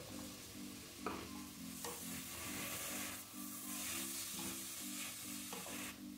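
Vegetables and sardine sizzling in olive oil in an aluminium pot while a wooden spoon stirs them, with a few knocks of the spoon. The sizzling grows louder about two seconds in as the mix is stirred.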